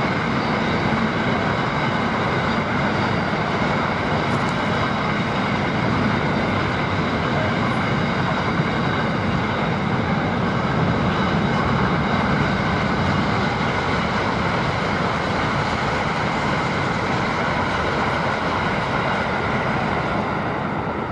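Freight train rolling past: a steady, loud noise of wagons running on the track, with steady high-pitched ringing tones over it.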